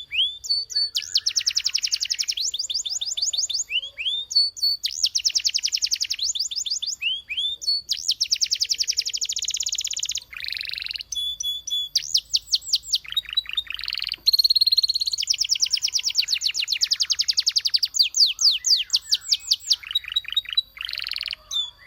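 Canary singing a long song of rapid trills and rolls, changing from one phrase to the next every second or two.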